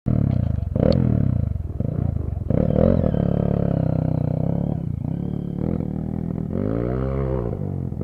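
Dirt bike engine revving hard under load, its pitch shifting as the throttle is worked, rising and then falling once near the end.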